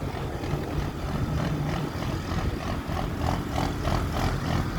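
Pulling truck's engine running hard and steadily under load as it drags the weight sled down the track.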